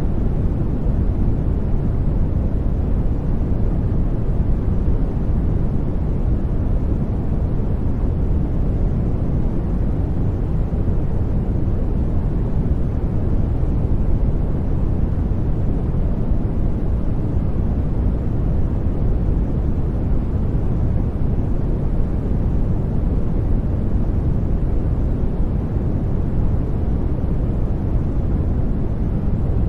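Steady sleep-noise track: a constant, even rushing noise weighted toward the deep end, like brown noise, that does not change.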